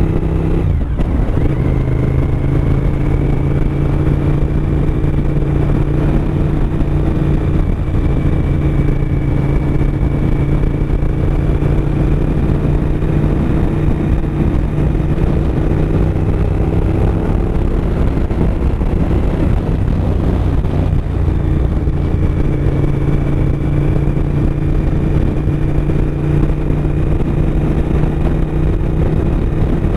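2007 Suzuki SV1000S's 996 cc V-twin engine running at a steady cruising speed, heard from the bike with wind noise; the engine note dips briefly about a second in, then holds steady.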